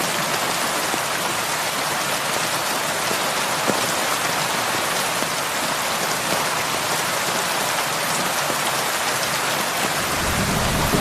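Heavy rain falling steadily, a dense even hiss of drops on surfaces. Near the end a low rumble of thunder begins to build.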